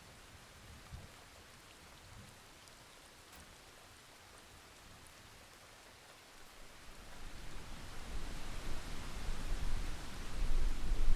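Steady rain ambience, a soft even hiss. About two-thirds of the way through, a deep rumble of thunder swells in and grows louder to the end.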